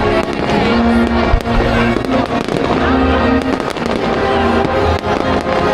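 Fireworks going off in a rapid string of sharp bangs and crackles over loud music.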